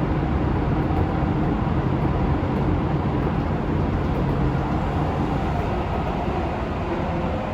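Interior running noise of a Keisei 3700 series electric train travelling at steady speed: an even rumble of wheels on rail and running gear, with a faint steady whine over it.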